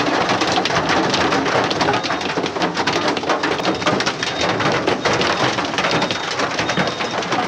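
Heavy rain beating on a hard surface: a loud, steady patter of many drops.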